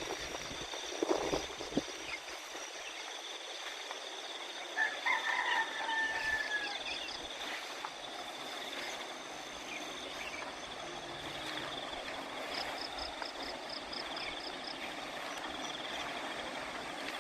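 Rice-field ambience of insects such as crickets and frogs chirring steadily at a high pitch. A single drawn-out call comes about five seconds in, and a fast pulsing trill sounds later on.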